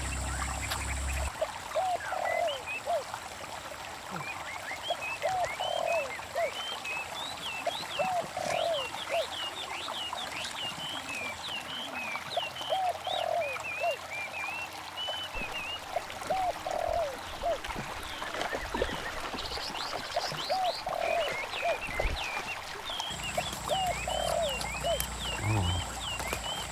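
A chorus of animal calls: many short hooked chirps, with a lower call repeating in irregular groups throughout.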